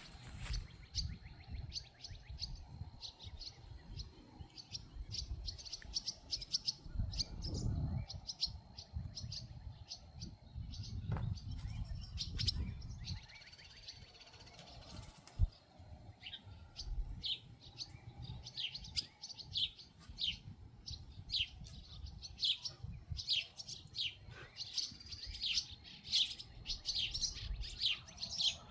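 Many small birds chirping, short high chirps in quick succession, growing busier about halfway through. A low rumble runs underneath.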